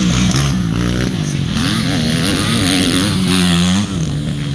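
Motocross dirt bike engines revving, the pitch rising and falling over and over.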